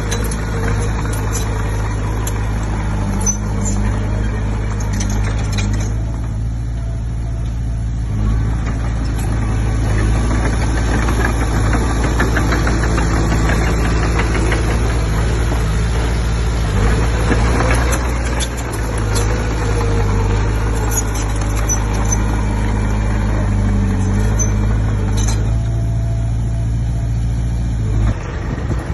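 Komatsu D20P bulldozer's diesel engine running steadily under work, with clattering over a constant low hum. The engine sound drops away near the end.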